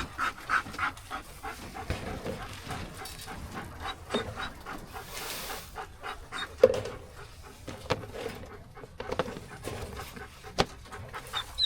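A dog panting, with scattered sharp clicks and knocks from handling cages and gear close by.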